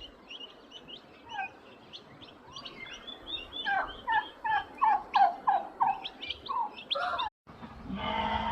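Birds calling in a quick run of short, chirping notes, several a second. The calls break off suddenly near the end, where a different, steadier animal sound begins.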